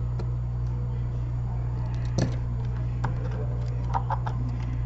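Scattered small clicks and taps of hand tools working on an iPad Air's casing and screen, with one sharper click about two seconds in and a quick cluster near the end, over a steady low electrical hum.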